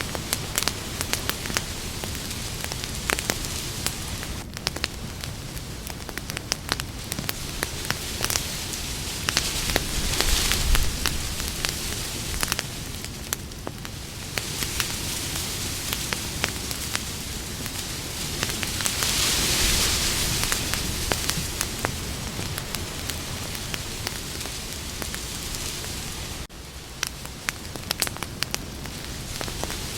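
Campfire crackling: frequent sharp pops and snaps over a steady hiss of burning wood. The fire swells louder about ten seconds in and again around twenty seconds in.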